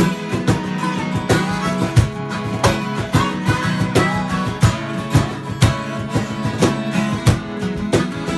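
Instrumental break of a live Americana band, led by guitar with a steady beat.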